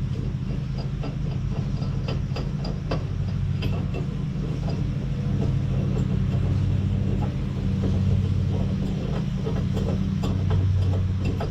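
Tractor engine running at a steady idle, with scattered metallic clicks and knocks over it.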